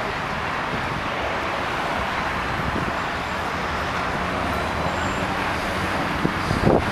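Steady roar of aircraft engines, holding an even level without rising or falling.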